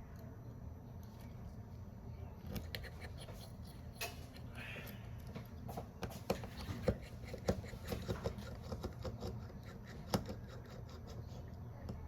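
Irregular small clicks and taps of hand tools and phone parts being handled during a smartphone screen repair, over a steady low hum.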